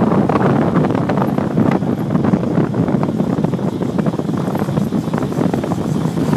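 Wind rushing and buffeting over the microphone on a moving motorbike, with the bike's engine running underneath.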